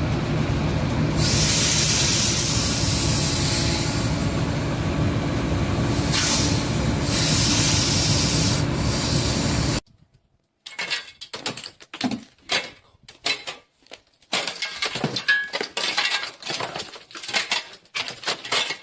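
A steady low machine rumble with loud hissing spray bursts, cutting off suddenly about halfway; then a string of irregular sharp knocks and clicks.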